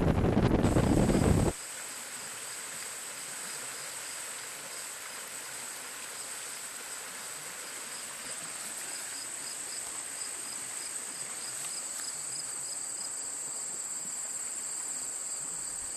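Wind buffeting the microphone, which cuts off suddenly about a second and a half in. Then a steady, high-pitched insect chorus with a fainter pulsing chirp beneath it.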